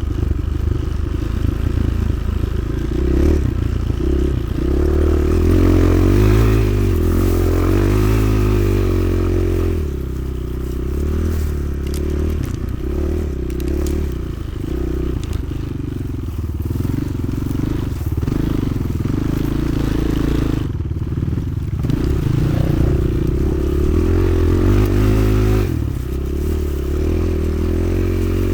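Motoland XR 300 Lite enduro motorcycle's single-cylinder four-stroke engine running under way, the throttle opened and closed again and again so its pitch keeps rising and falling.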